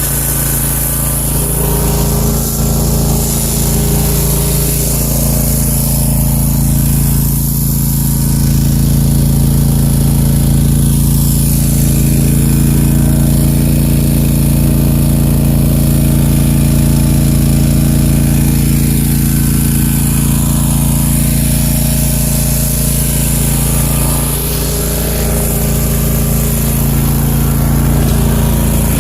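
Country Clipper zero-turn lawn mower's engine running steadily as the mower drives, its note shifting slightly about four seconds in and again near the end.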